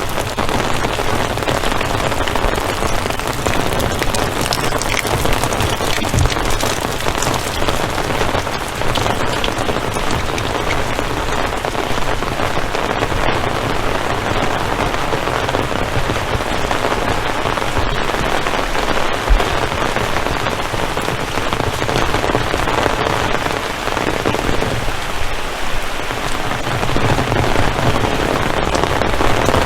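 Heavy rain falling, a steady loud hiss with many close drop hits.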